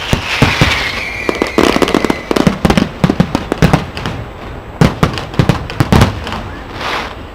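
Aerial fireworks going off: a rapid, irregular series of loud bangs and cracks, with a whistling tone through the first two seconds or so.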